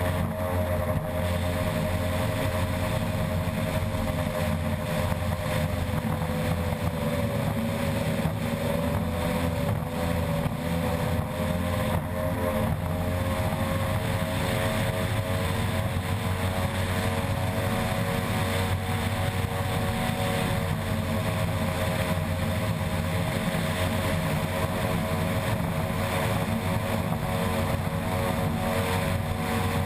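Unlimited-class racing ski boat's outboard engine running flat out at steady, high revs over a constant rush of noise. The engine pitch sags slightly about eight seconds in, then holds.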